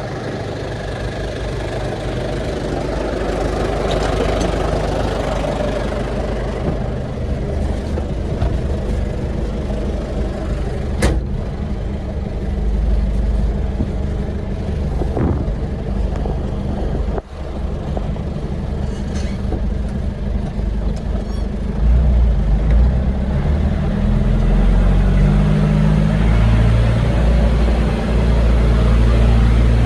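Old truck engine running while the truck is driven, a steady low rumble that grows louder about two-thirds of the way through as the engine works harder. A sharp click sounds about a third of the way in.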